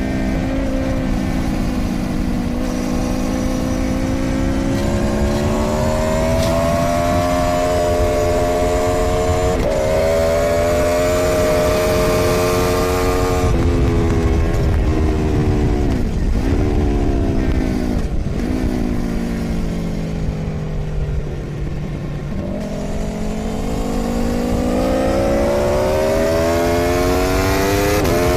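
Onboard sound of an Aprilia Tuono V4's V4 engine at speed on a racetrack, with wind noise. The engine note climbs and falls through the gears, dips sharply with two quick downshifts about sixteen and eighteen seconds in, and runs low through a corner before rising steadily under acceleration near the end.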